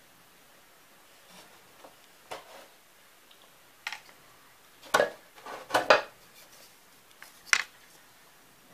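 A few separate light clacks and knocks of small hard objects being handled, the loudest pair about five to six seconds in and another near the end.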